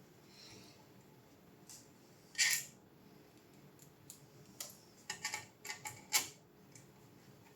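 Light clicks and taps of small hard objects being handled. There is a short scraping rustle about two and a half seconds in, then a quick run of sharp clicks near the end.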